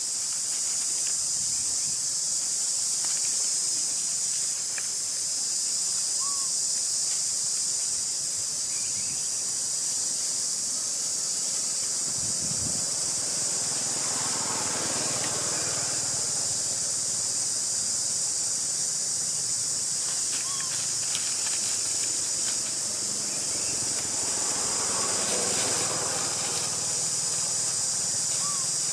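Steady, high-pitched insect chorus, a continuous droning hiss typical of cicadas, with a few brief squeaks and two stretches of rustling noise, about halfway through and near the end.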